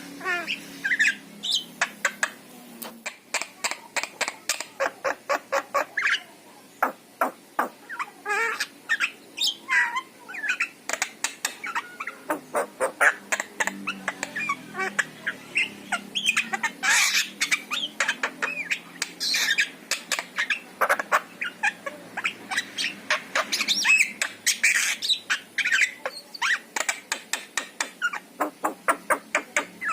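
Javan myna singing: a long, varied run of harsh squawks, rapid clicking trains and short chirping notes.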